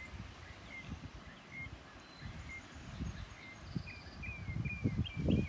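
Birds chirping outdoors: short high notes repeating, getting busier near the end, over a low irregular rumble that swells in the last second or so.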